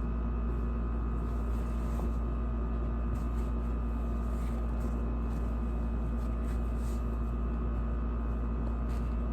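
Steady low hum with a few constant tones held above it, and a few faint light ticks and rustles.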